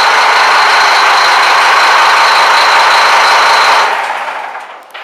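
Scania marine diesel engines running loudly in the engine room, a steady din with a fixed high whine. About four seconds in the noise drops away quickly, and a few clicks follow.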